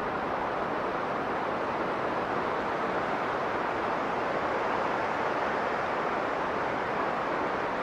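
Strong blizzard wind blowing steadily: an even rushing noise with no distinct gusts or breaks.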